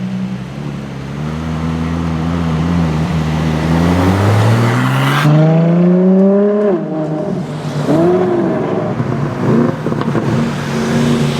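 Sports car engine accelerating hard, its pitch climbing steadily for several seconds before dropping off sharply about seven seconds in, followed by a couple of short revs.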